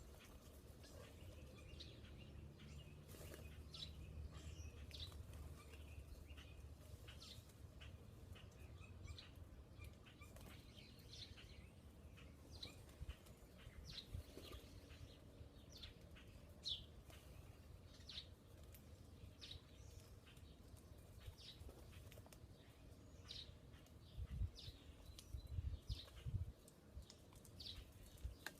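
Faint wild bird chirps, short high notes coming every second or so, over a low rumble, with a few low thumps near the end.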